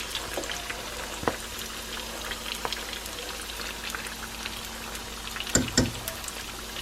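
Egg rolls frying in a pan of vegetable oil on the stovetop: a steady, crackling sizzle with scattered pops, and a couple of knocks near the end.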